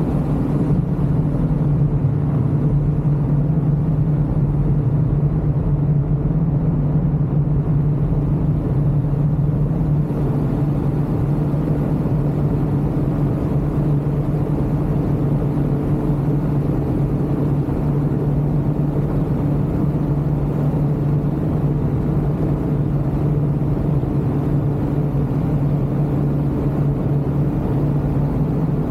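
Ultralight aircraft engine droning at a steady, constant speed in flight, heard from on board with rushing air underneath.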